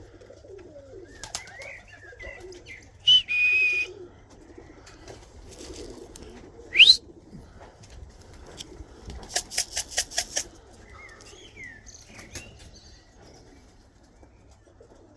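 Pigeons cooing low throughout, with a quick run of wing flaps about nine seconds in. A short high held whistle comes a few seconds in, and a loud rising whistle about seven seconds in, with a few small bird chirps around them.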